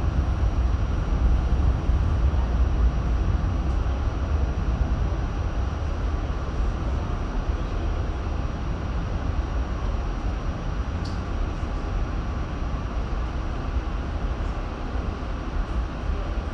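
R68 subway train running on the track, a steady low rumble that eases slightly toward the end, with one short click about eleven seconds in.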